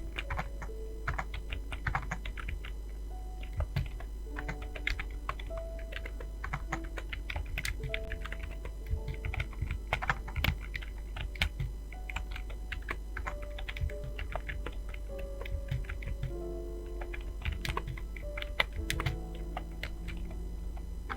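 Fast, continuous typing on a computer keyboard, an irregular stream of key clicks, over soft background music with held notes.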